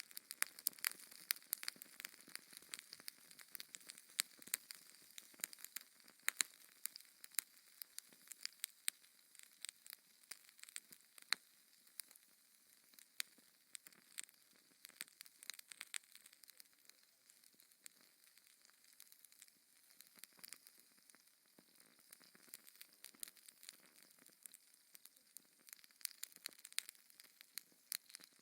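Wood fire crackling: irregular sharp pops and snaps over a faint hiss, thicker at first and thinning out for a few seconds past the middle.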